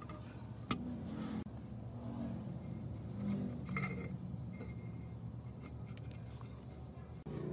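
A steady low motor hum with scattered metallic clinks and scrapes. A sharp knock comes about three-quarters of a second in, and a short ringing note a little before the four-second mark.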